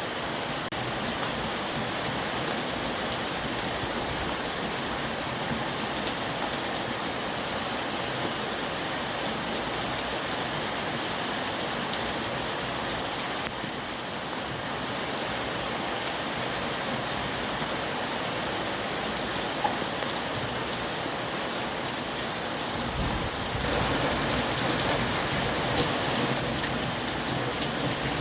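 Heavy rain falling steadily, a dense even hiss of drops, growing louder and heavier near the end.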